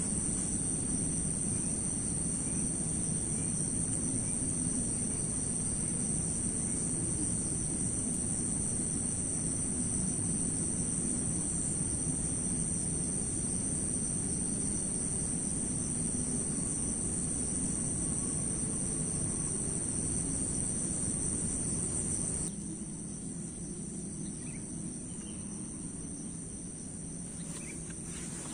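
A steady, shrill insect chorus of crickets chirring at a high pitch over a low, even rushing noise. About three-quarters of the way through, the low rushing drops away suddenly and the insect chorus carries on alone, a little quieter.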